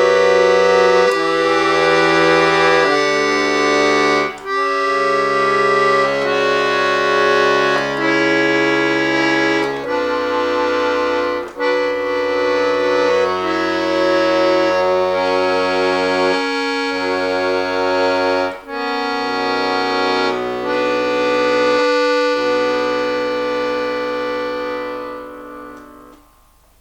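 Bayan (Russian button accordion) playing slow sustained chords over held bass notes, with a few short breaks between phrases; the final chord dies away near the end.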